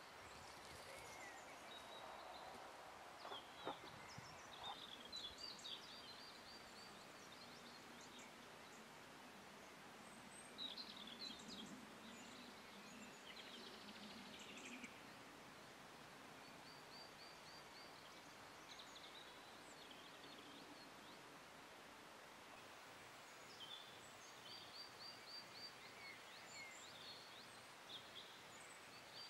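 Faint outdoor ambience with small birds chirping on and off, including several quick runs of high repeated notes.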